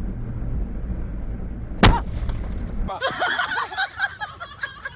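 A vehicle collision: one sharp bang about two seconds in, over a low rumble of vehicle noise. Voices follow in the last two seconds.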